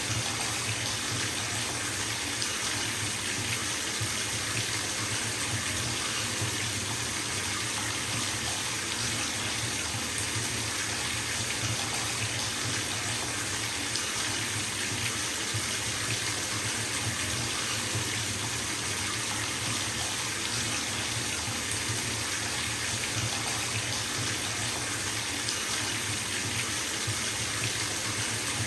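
Bathtub tap running full, water pouring into the filling tub in a steady rush with no breaks.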